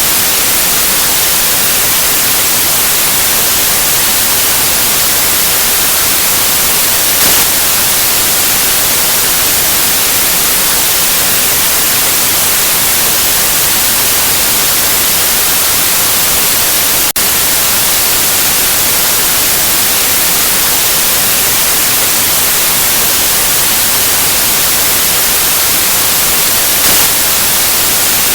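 Steady white noise: an even, loud hiss with most of its weight in the treble, broken only by a split-second dip a little past halfway.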